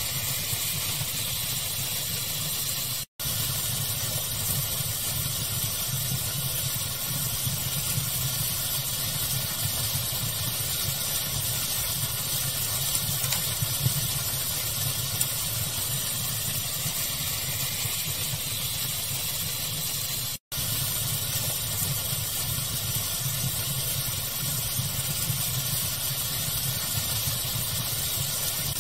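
Fire-ambience pink noise: a steady, even rushing noise with a low rumble underneath and a few faint crackles. It cuts out completely for a split second twice, about 3 seconds in and again about 20 seconds in.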